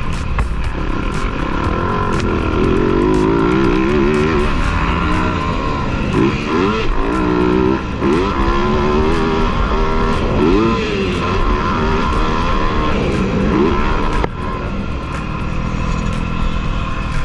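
Motocross dirt bike engines riding the track, the pitch rising and falling again and again with throttle and gear changes, with a brief drop in level about fourteen seconds in.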